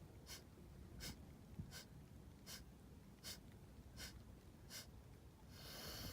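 Kapalabhati (breath of fire) breathing: quick, forceful exhalations through the nose, about one every three quarters of a second, faint. A longer, steadier breath sound follows near the end.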